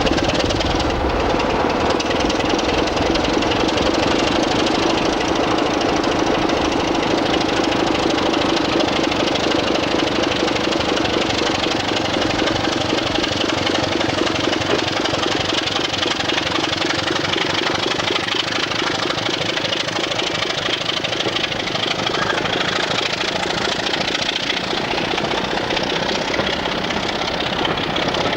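Diesel train engine running loudly and steadily, with a droning tone that eases off about halfway through.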